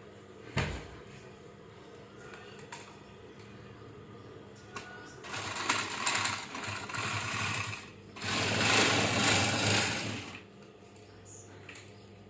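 Sewing machine stitching in two runs, the second louder and about two and a half seconds long, after a single thump about half a second in.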